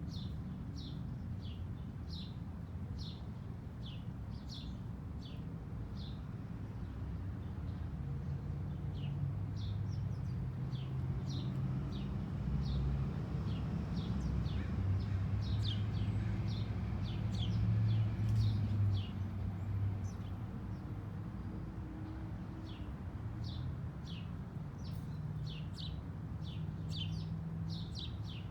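Small birds chirping: a long run of short, high, falling chirps, about one or two a second, over a low rumble that grows louder around the middle and then fades back.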